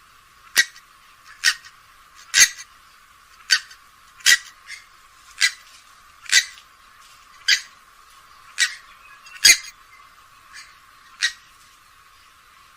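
Grey-headed swamphen calling: a series of short, sharp notes repeated about once a second.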